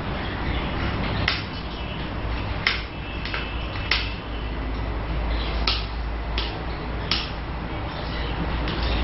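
Ceiling fan running with a steady airy noise and a low hum. About eight sharp clicks come through at uneven gaps.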